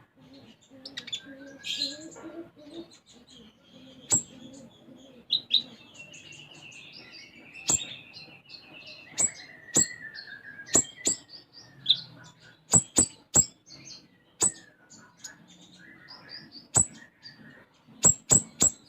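A konin songbird singing: a string of sharp, piercing chirps scattered throughout, with a long twittering warble about six seconds in that slides down in pitch, part of a song filled with imitated house-sparrow notes.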